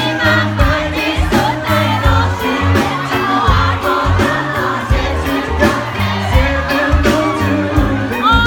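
Live pop music at a concert: a band with a steady bass beat and singing, with many crowd voices mixed in.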